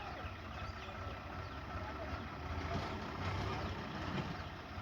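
Heavy diesel engine running steadily at low speed with an even low rumble.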